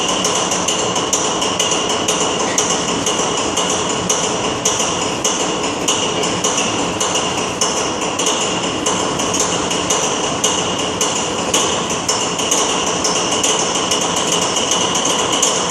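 Pielstick diesel engine of an M47 diesel locomotive running after a cold start, with a steady, even knocking about twice a second over its running noise.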